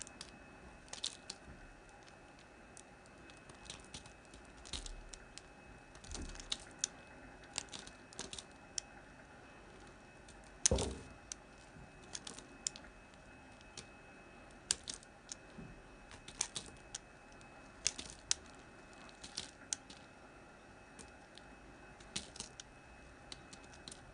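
Blade cutting into a hard bar of Palmolive soap: irregular sharp clicks and crackles, with one louder knock about halfway through.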